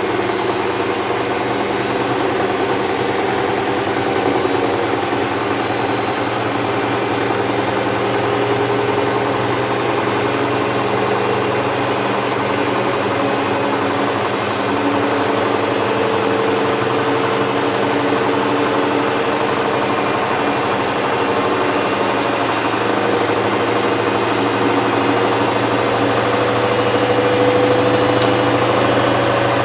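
Hoover Vision Tech washer-dryer running loudly with a steady whir and a high whine that creeps slowly upward in pitch.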